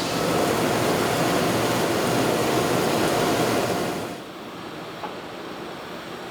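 Steady rushing noise of forging-plant machinery, which drops off sharply about four seconds in to a quieter background noise with a single faint click.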